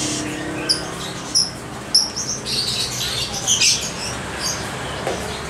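Caged oriental magpie-robins (kacer) giving short, high chirps and call notes at irregular intervals.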